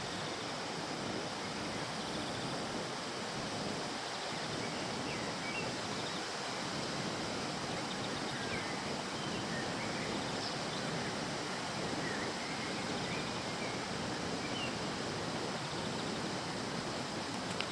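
Steady rushing of flowing river water, with a few faint bird chirps scattered through the middle.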